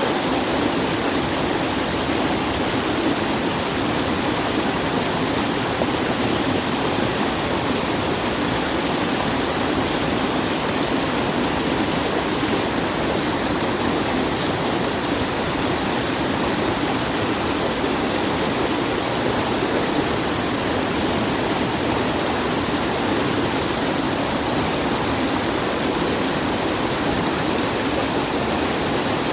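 Steady rushing water, an even unbroken noise with no changes.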